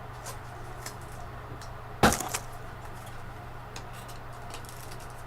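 Trading cards and their holders being handled on a table: faint small clicks and rustles, with one sharp knock about two seconds in, over a steady low hum.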